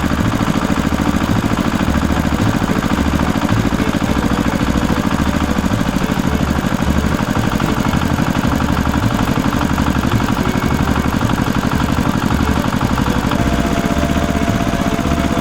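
Small engine of a homemade miniature tractor running steadily with a fast, even chugging. A steady higher tone joins near the end.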